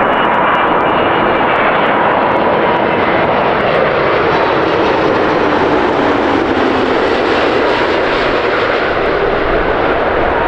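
Jet airliner's engines passing close by: a loud, steady noise with a faint whine running through it.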